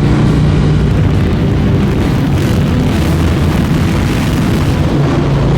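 A pack of motorcycles running hard at speed: a loud, steady engine rumble with a dense rushing noise over it.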